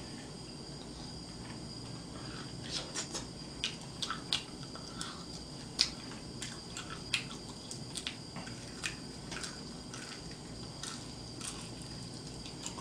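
Open-mouthed chewing and lip-smacking on fried chicken: an irregular string of short wet smacks and clicks over steady background noise.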